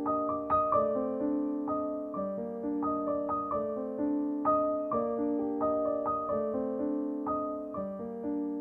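Background piano music: a gentle melody of single notes over sustained lower notes, at an unhurried pace.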